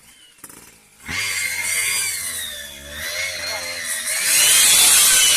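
Small motorcycle engine revving hard under load, its whine rising and falling. It starts about a second in and is loudest near the end.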